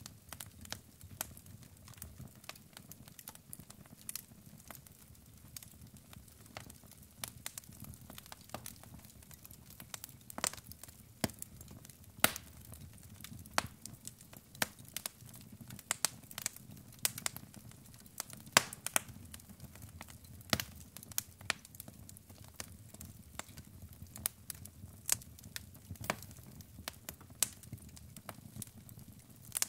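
Burning logs in a fireplace crackling: irregular sharp pops and snaps, some much louder than others, over a low steady rumble of the flames.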